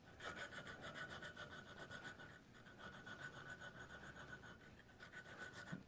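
Faint, repeated scraping of a hand file stroking across the edge of a small metal part, rounding it over. The file cuts poorly, and the metalworker takes it to be getting dull.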